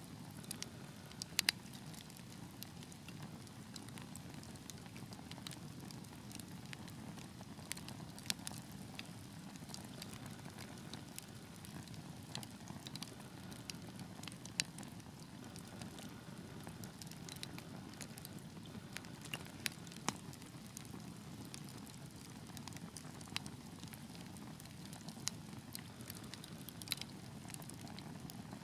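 Wood fire burning in a fireplace: a steady low rustle of flames with scattered sharp crackles and pops, a few of them louder, two close together about a second and a half in.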